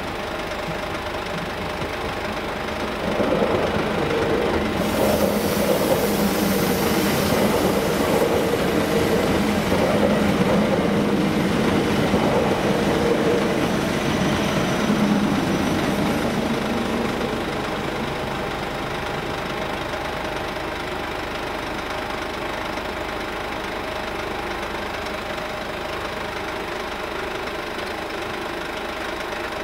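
Electric passenger train passing over the level crossing: its rumble and wheel-on-rail noise rise about three seconds in, with a hiss for several seconds, and fade away after about seventeen seconds. A steady engine idle carries on underneath.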